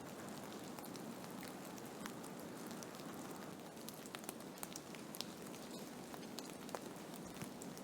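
Blizzard: a steady rushing noise of wind-driven snow, with many scattered sharp ticks and taps on top.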